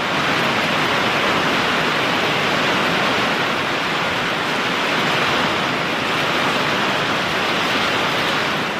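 Heavy thunderstorm downpour, a steady dense hiss of rain driven by strong wind, with no let-up and no thunderclap.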